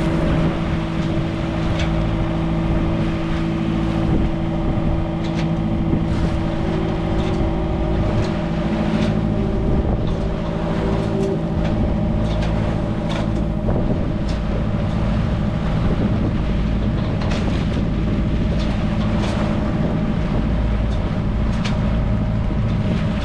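Motorsailor's inboard engine running steadily under way, a constant hum with wind buffeting the microphone and occasional short knocks or slaps.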